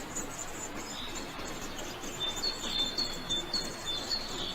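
Birds chirping in short, high notes repeated every half second or so, over a steady background hiss.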